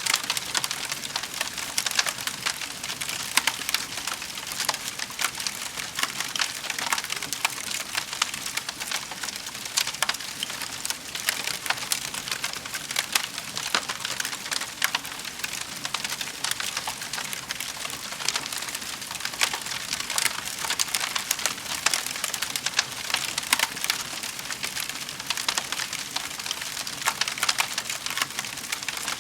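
Wood fire crackling in a fireplace: a dense, irregular run of small sharp snaps over a steady hiss.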